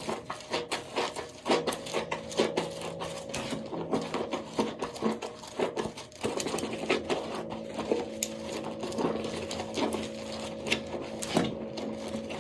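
Soap being worked for ASMR: a dense run of crisp crackles and crunches, some louder snaps among them, over a steady low hum.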